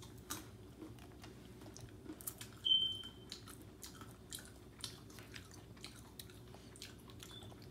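A child chewing peeled orange segments, with small wet clicks and smacks of the mouth. About three seconds in comes a brief high squeak, the loudest sound.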